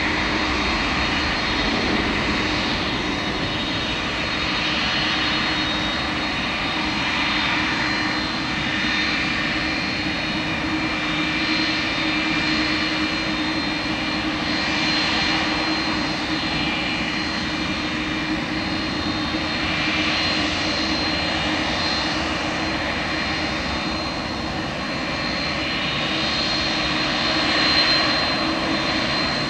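Airbus A310-300 jet engines running, a steady loud rush with a constant high whine over a low hum.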